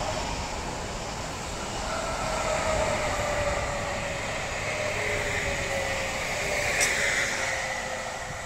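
Train running past on the line with a steady rumble and a whining tone that slowly falls in pitch, and a sharp click about seven seconds in.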